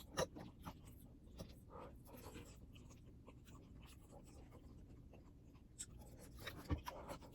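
Faint eating sounds: scattered light clicks and scrapes of a utensil against the dish, with one louder knock about six and a half seconds in.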